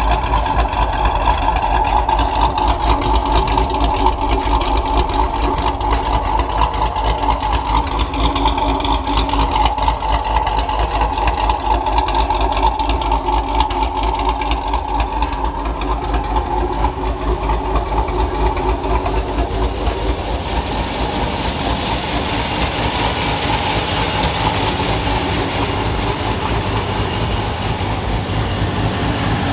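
Cammed 5.7-litre HEMI V8 of a 2016 Dodge Challenger R/T with long-tube headers idling, with a rapid, even low pulse. A hiss rises alongside it about twenty seconds in.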